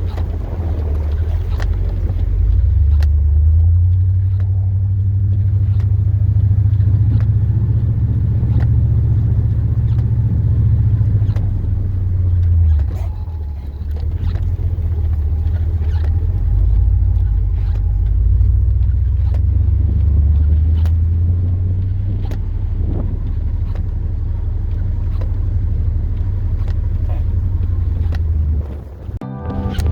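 Chevrolet Silverado plow truck running and driving, a heavy low engine and road rumble heard from the cab that swells and eases as the load changes, with scattered clicks and knocks.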